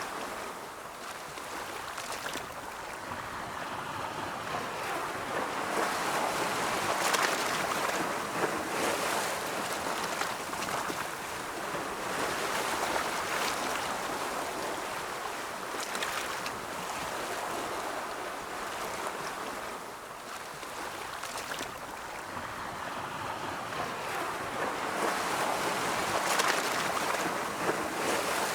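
Ocean surf: a continuous rushing hiss of waves that swells and ebbs in slow surges. It is loudest about a quarter of the way in and again near the end, with a lull about two-thirds through.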